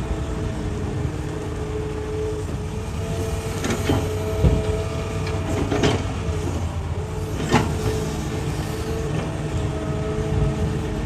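Hitachi excavator's diesel engine running steadily, with a handful of sharp clanks and scrapes as the bucket works into rock, bunched in the middle; the loudest comes about four and a half seconds in.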